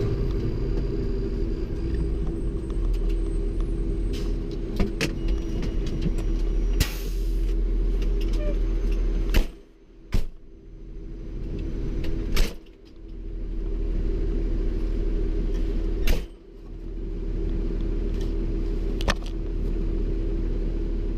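Fire engine running, heard from inside the cab: a steady low rumble and hum with scattered sharp clicks and rattles. Three times the rumble drops away briefly, each time just after a sharp knock.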